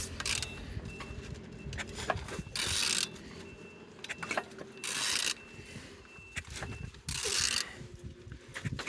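Renault K9K 1.5 dCi diesel engine being turned over by hand, turning freely and not seized. The turning gives scattered metallic clicks and knocks, with three short hissing rushes about two and a half seconds apart.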